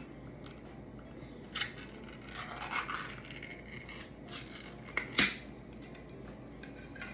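A container of lump crab meat being handled and opened: a sharp click about a second and a half in, scraping and crinkling around three seconds, and a louder double click about five seconds in.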